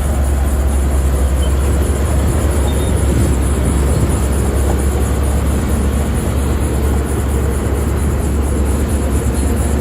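Heavy diesel earth-moving machinery running steadily, a loud, deep engine rumble that holds level throughout.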